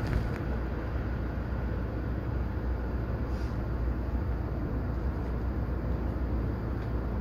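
Interior running noise of an electric commuter train under way: a steady low rumble of wheels on rail with a couple of faint light clicks.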